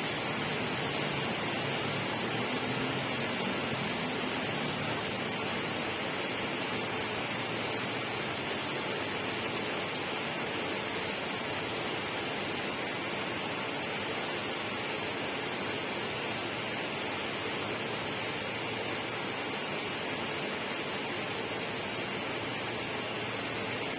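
Steady, unbroken hiss of rushing noise at an even level, with no separate drops, splashes or other events.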